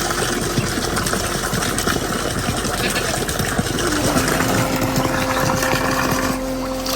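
Heavy rain pouring down: a dense, steady hiss full of small hits.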